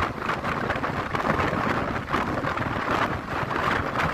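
Passenger train running along the track, its wheel and carriage noise heard from an open window with wind buffeting the microphone. A steady, dense rush that rises and falls slightly, with no separate clicks standing out.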